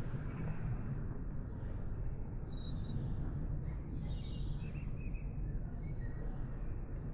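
Steady low rumble of outdoor background noise, with a few faint bird chirps in the middle.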